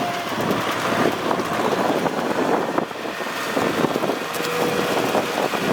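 Kubota tractor's diesel engine running steadily while plowing, with wind buffeting the microphone.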